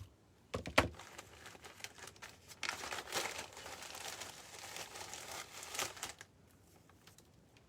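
Dry excelsior (wood wool) crinkling and rustling as it is handled and pressed into place, with a few sharp crackles just under a second in. The rustling stops about six seconds in.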